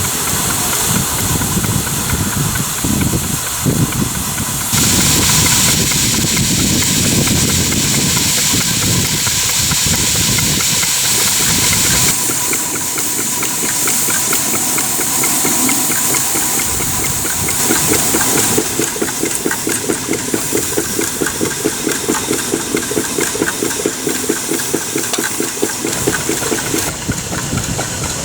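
A 3 inch scale Burrell agricultural steam traction engine working. A strong steam hiss comes in about five seconds in and stops about two thirds of the way through; from there the engine runs with a quick, even chuffing beat.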